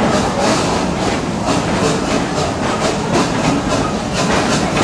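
Amusement-park passenger train running along its track, heard from aboard a car: a steady rumble with a rhythmic beat of short hissing pulses about three times a second.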